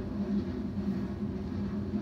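Train passing close by: a steady rumble with a low hum that swells and fades about twice a second.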